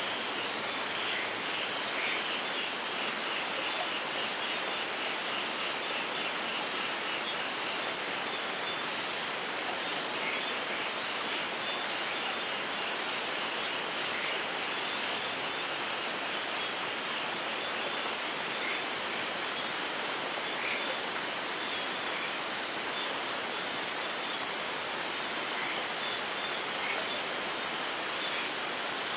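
Steady rain falling, an even hiss of drops with no letting up. Faint, quick, high chirps repeat in short runs over it at times.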